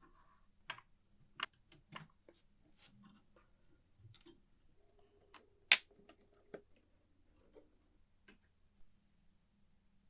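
Irregular clicks and taps of small parts and hand tools being handled during typewriter restoration work, with one much sharper click a little over halfway through.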